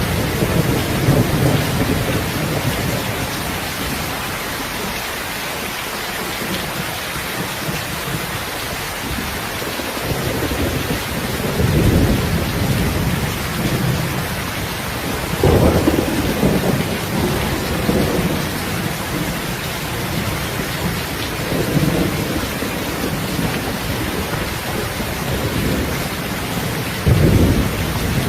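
Steady rain hissing, with low rumbles of thunder swelling up several times: once about twelve seconds in, again a few seconds later, and most strongly near the end.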